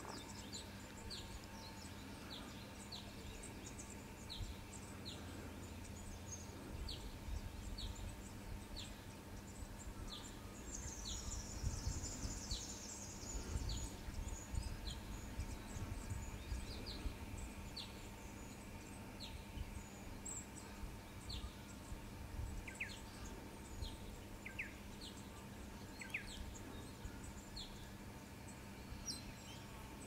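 Birds calling outdoors: a steady series of short, high falling notes, a little more than one a second, for most of the time, then a few longer falling whistles near the end. Underneath are a faint steady hum and a low rumbling noise that swells in the middle.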